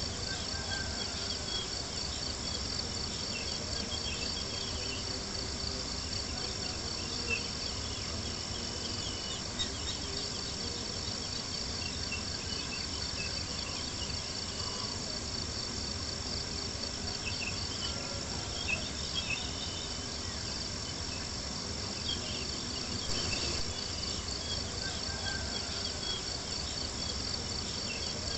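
Steady night chorus of crickets chirping, a fast even pulsing, over a low rumble, with a few brief sharp pops scattered through it.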